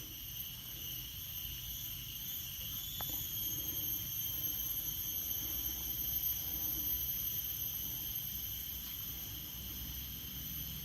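Steady high-pitched drone of tropical insects in chorus, one unbroken whining tone with higher overtones, over a low background rush.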